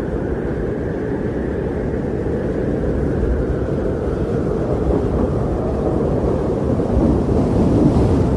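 Strong blizzard wind blowing in a steady deep rumble, swelling slightly near the end.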